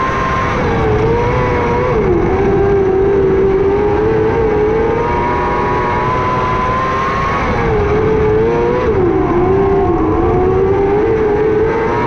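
600cc micro sprint car's four-cylinder motorcycle engine running at high revs under racing load. The revs dip and climb back about two seconds in and again near nine seconds, as it comes off and back on the throttle for the corners of the oval.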